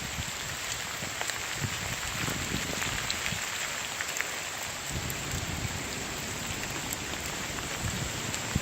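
Steady heavy rain from Hurricane Matthew falling and spattering on surfaces, with many scattered drop ticks and a few brief low rumbles.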